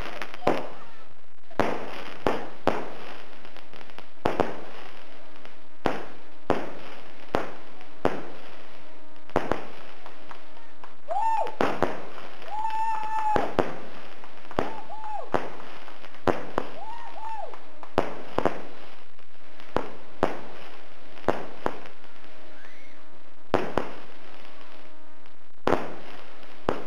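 Firework cake (a multi-shot battery) firing: a long series of sharp bangs, about one or two a second, with a few short whistling tones about halfway through.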